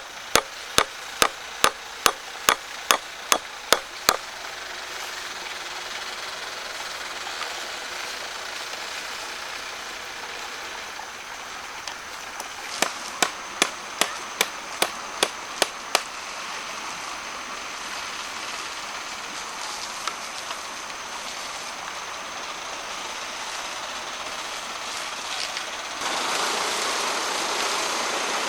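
Two runs of sharp tool strikes on wood, about three a second and around ten strikes each, over a steady background hiss that grows louder near the end.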